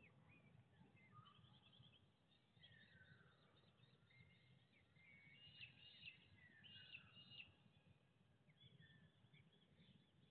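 Several birds calling faintly, with short chirps throughout and a couple of descending whistled notes. The calls grow busier and louder about halfway through. A low, steady background rumble runs underneath.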